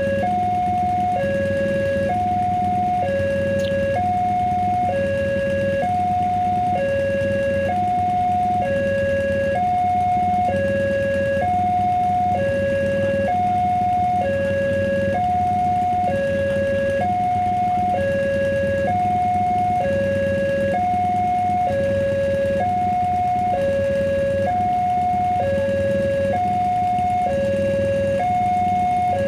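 Railway level-crossing warning alarm sounding a steady hi-lo two-tone signal, the two pitches alternating about once a second, over a steady low hum.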